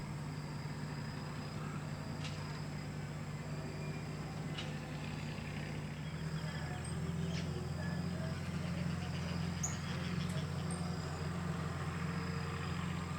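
A motor runs with a steady low hum that gets a little stronger about six seconds in. A few faint, high bird chirps and clicks sound above it.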